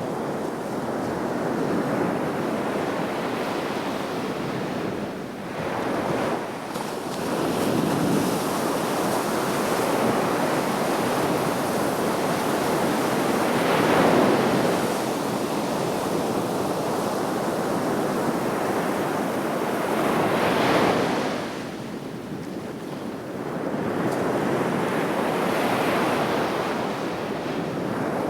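Sea waves breaking on the shore, a continuous wash of surf that swells and falls back in surges every several seconds, with the strongest breakers about halfway through and again near two-thirds of the way. Light wind rushes across the microphone underneath.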